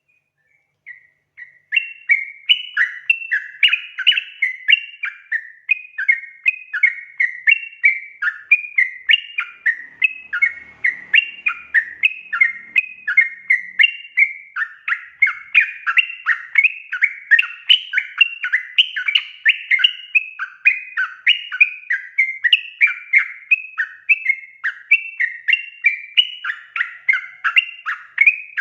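Yellow-vented bulbul (trucukan) singing vigorously in a rapid, unbroken run of bubbly, chattering notes. The song starts about a second in.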